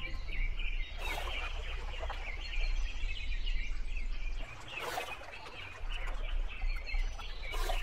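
Birds chirping continuously as a background ambience, with three short splashes of water: about a second in, near the middle and near the end.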